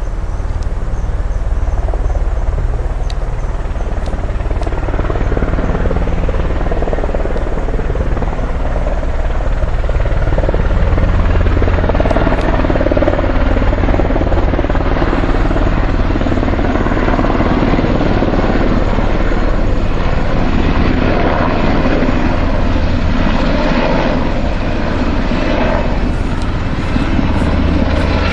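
Sikorsky UH-60 Black Hawk helicopter flying over: its rotor beat and turbine engine noise run steadily, growing louder over the first ten seconds or so and staying loud.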